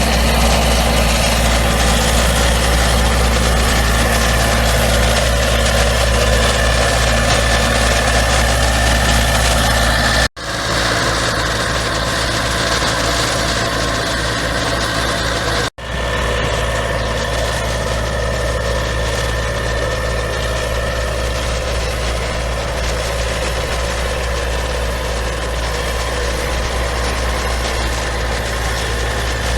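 An engine idling steadily with a low, even hum. The sound cuts out abruptly for an instant twice, about ten and about sixteen seconds in, then carries on unchanged.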